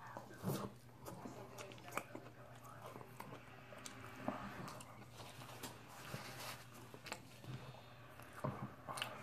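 A person chewing a mouthful of mango sushi roll close to the microphone: faint, irregular wet smacks and small clicks of the mouth.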